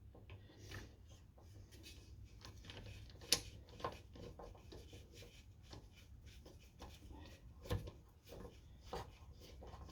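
Scattered light clicks and knocks of hand tools and parts being handled on a small engine, with two sharper knocks, one about three seconds in and one near the end.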